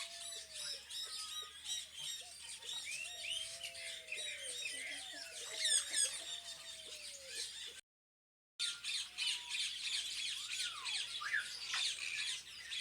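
A flock of parrots chattering and squawking together: a dense mix of many short high chirps with a few lower whistled glides. The sound drops out for about a second roughly two-thirds of the way through, then resumes.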